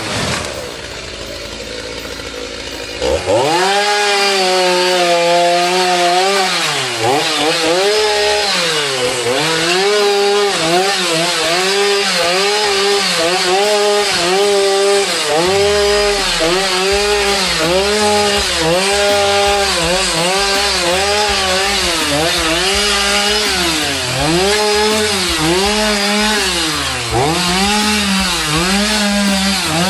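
Chainsaw cutting through wood. It revs up about three seconds in, then its engine pitch dips under load and rises again roughly once a second as it bites into the cut.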